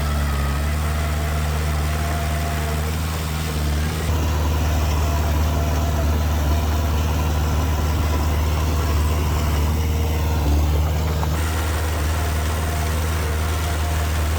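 Heavy machinery's diesel engine running steadily, slightly louder after about four seconds.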